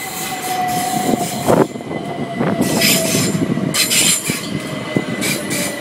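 A Class 377 electric multiple unit running through the station, its wheels squealing in a steady high tone over the rumble of the train. Several sharp knocks come as the wheels cross rail joints and points.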